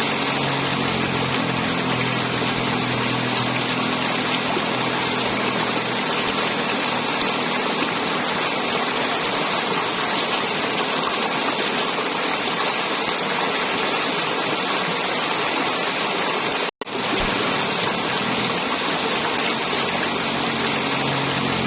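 River water flowing and gurgling steadily. The sound cuts out for an instant about three-quarters of the way through.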